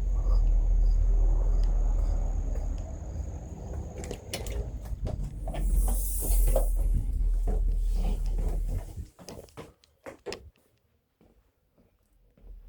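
A heavy low rumble with scattered knocks and clicks, like a microphone being handled, then a few sharp knocks. About nine seconds in the rumble cuts off suddenly and all goes nearly quiet.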